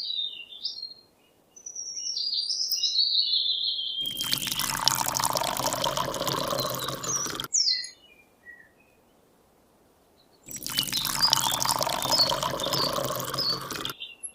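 Birds chirping, then water pouring and splashing in two stretches of about three and a half seconds each, with a pause between them.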